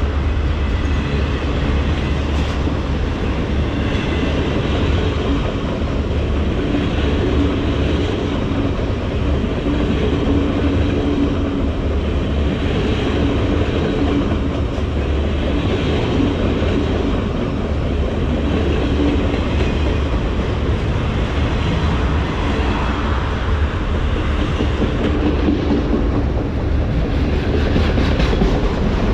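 Norfolk Southern freight train's cars rolling past, a loud, steady rumble of steel wheels on the rails.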